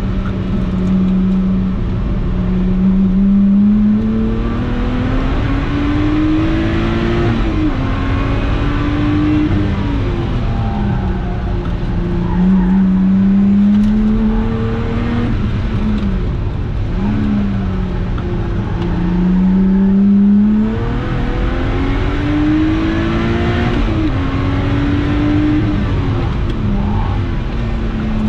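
Lotus Exige 350 Sport's supercharged 3.5-litre V6 heard from inside the cabin, driven hard on track. The engine note climbs through the revs and drops sharply at each gearshift, several times over, with brief dips and rises as the driver brakes and shifts down for corners.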